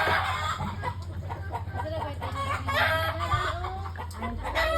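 Several chickens clucking and calling over one another in short, overlapping calls, with a low steady hum underneath.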